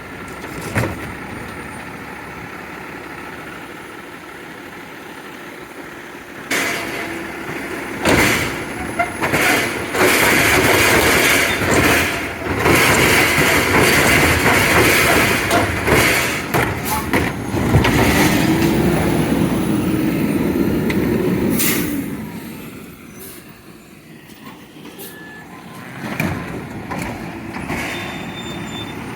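Garbage truck running with a steady mechanical noise and repeated clanks and bangs. In the middle is a long, louder stretch of machinery noise, with a tone that rises and falls near its end.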